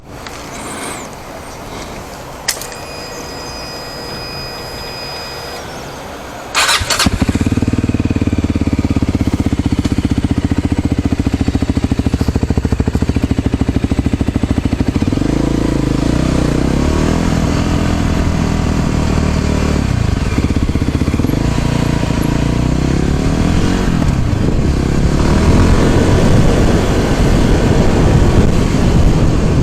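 A vehicle engine, likely a motorcycle or scooter, starting abruptly about seven seconds in and then running, its pitch rising and falling with the throttle. Before it starts, a steady electronic beep sounds for a few seconds.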